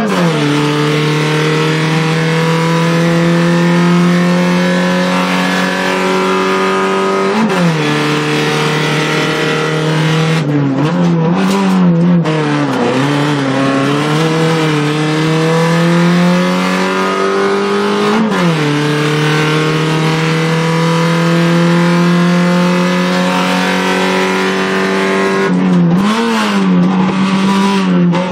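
Fiat Punto Cup rally car's engine, heard inside the cabin under hard acceleration: the revs climb steadily through each gear, with sharp drops at upshifts about seven and eighteen seconds in. Around ten to fourteen seconds in and again near the end, the revs rise and fall unevenly as the car brakes and changes down for corners.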